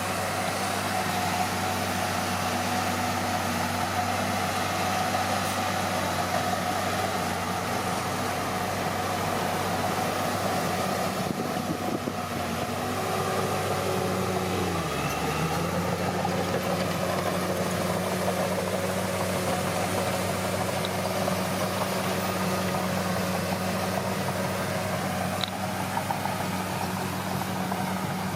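Komatsu D41P bulldozer's diesel engine running steadily as the dozer works. About halfway through the engine's pitch drops briefly and then comes back up, as under a load.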